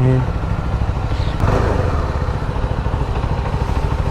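CFMoto motorcycle engine running with a steady low pulsing, with a brief swell about one and a half seconds in. The tail of background music cuts off at the very start.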